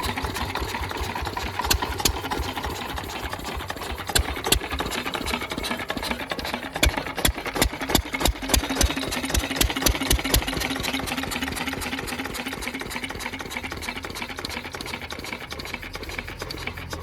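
Lister and 8 hp stationary engines running together, a steady hum under a fast mechanical clatter, with louder sharp knocks for several seconds in the middle.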